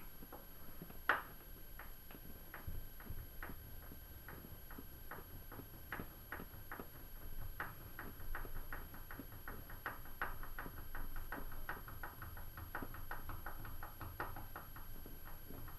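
Drywall screw being backed out with a hand Phillips screwdriver: a run of sharp clicks, one louder click about a second in, then a few a second quickening to about four a second.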